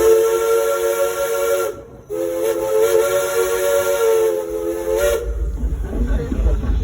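Steam locomotive's chime whistle sounding a chord of several notes in two long blasts: the first cuts off about a second and a half in, and the second starts after a short gap and holds for about three seconds.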